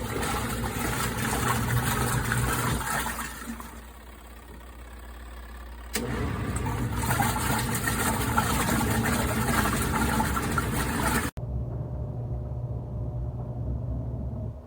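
Auertech mini twin-tub portable washing machine running, a steady motor hum with a rushing noise. It fades about three and a half seconds in, comes back suddenly about two seconds later and cuts out briefly near the end.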